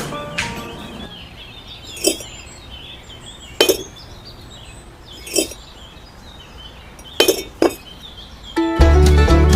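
A handful of short, sharp clinks of small hard objects knocking together, spaced irregularly a second or two apart, two of them close together near the end. Background music fades out at the start and comes back loudly near the end.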